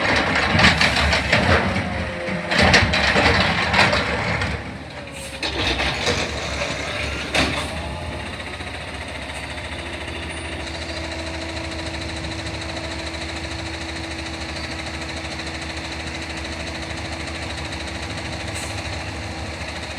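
Garbage truck working: a loud, noisy clatter with sharp knocks for the first several seconds, then the truck's engine idling steadily, with a steady tone coming in about halfway through.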